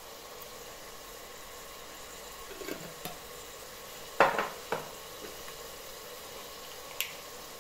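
Tomato masala sizzling softly in an aluminium pressure cooker, with a few clinks and knocks of utensils against the pot. The loudest knock, about four seconds in, rings briefly and is followed by a smaller one; a sharper click comes near the end.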